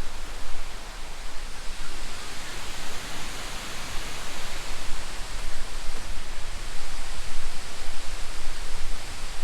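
Steady rush of falling and flowing water at the top of the Kuang Si waterfall, with a low rumble underneath.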